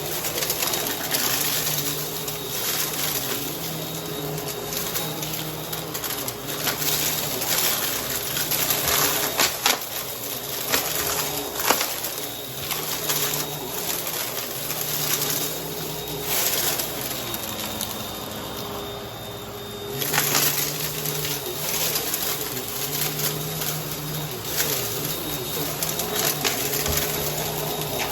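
Vacuum cleaner running over a carpet mess, its motor humming steadily while the brushroll picks up crunchy debris with scattered crackles and sharp clicks. The sound eases briefly about two-thirds of the way through, then picks up again.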